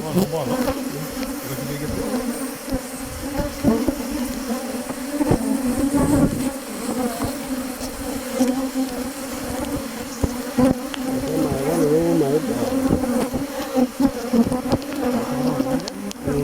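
Swarm of honeybees from an opened Langstroth hive buzzing loudly and steadily, a wavering hum, with occasional short knocks throughout.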